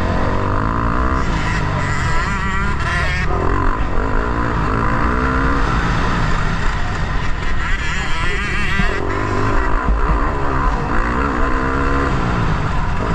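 Motocross bike engine revving up and down hard as it is ridden around the track, its pitch rising and falling every second or so over a constant low rumble.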